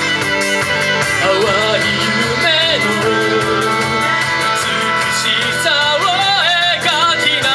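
A singer performing over a backing track of a rock-style band with guitar and drums, the voice sliding and wavering with vibrato and the cymbals keeping a steady beat.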